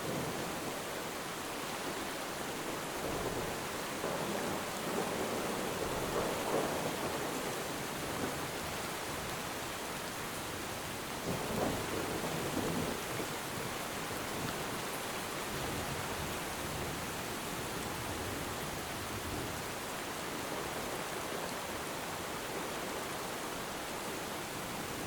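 Steady heavy rain, an even rushing hiss that swells louder twice, about a third of the way in and near the middle.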